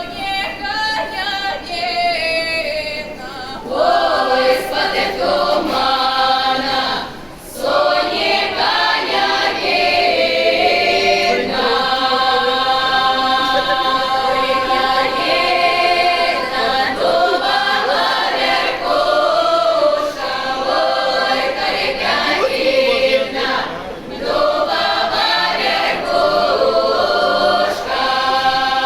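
Russian folk choir singing in many voices, with short breaks between phrases about seven seconds in and again near the end.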